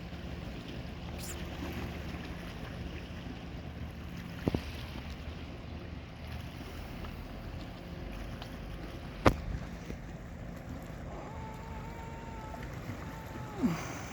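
Boat engine running with a steady low hum under wind and water noise. Two sharp knocks come about four and a half and nine seconds in, and near the end a short held tone drops steeply in pitch.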